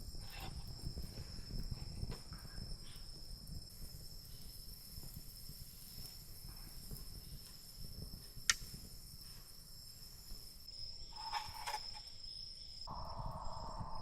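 Forest insects droning with one steady high note, over a low rumble, with a sharp click about eight and a half seconds in and a few more knocks near the end.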